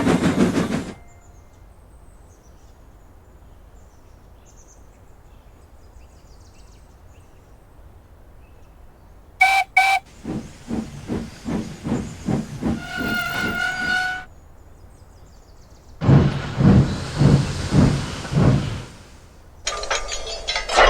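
Steam locomotive sounds: two short whistle toots, then a run of rhythmic chuffs with a whistle sounding near the end of it. After a pause, a second run of heavy steam puffs.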